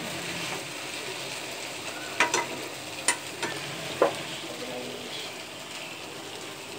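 Noodles with egg and vegetables sizzling in a hot wok while a metal spatula stirs and tosses them, with a few sharp clinks of the spatula against the pan between about two and four seconds in.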